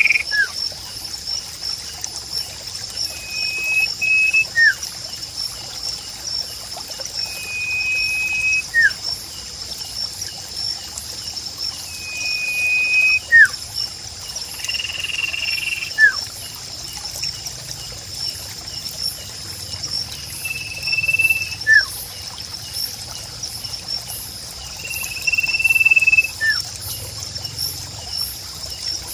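Nature ambience: insects trill steadily and high, a long flat whistled call repeats about every four seconds with short quick chirps between, over a faint trickle of water.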